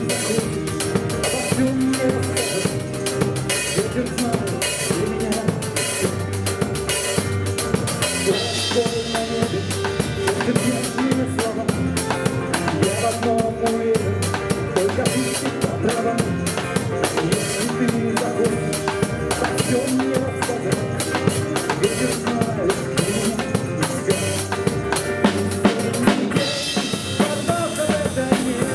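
Drum kit with kick, snare and cymbals played in a steady rock beat over a backing recording of the song. The cymbals get louder about eight seconds in and again near the end.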